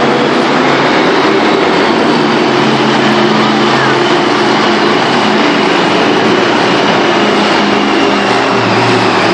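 Monster truck engines running loud and steady in an arena.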